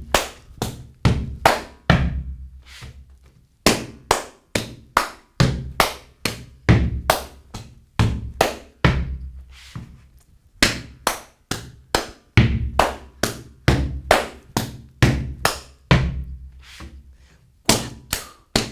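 Gumboot dance body percussion: hands slapping rubber boots, with claps and steps, played as a fast rhythmic sequence. The phrase repeats about every seven seconds, with a short pause between repeats.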